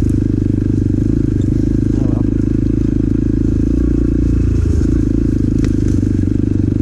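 Motorcycle engine running at a steady, even throttle, heard from a mic inside the rider's helmet, with a slight change in engine note about two-thirds of the way through.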